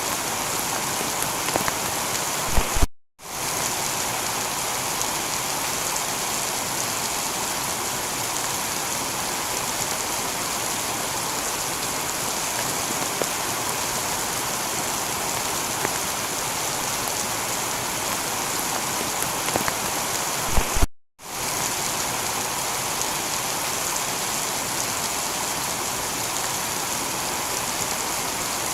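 Heavy rain falling steadily on a tiled roof, an even hiss of drops. Twice, about 3 seconds in and about 21 seconds in, a couple of sharp clicks come just before the sound cuts out for a split second and resumes: the seams of a looped recording.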